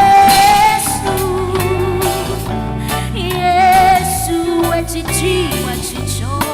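Live gospel music: a band playing under a singer holding long, wavering notes, with bass and drums.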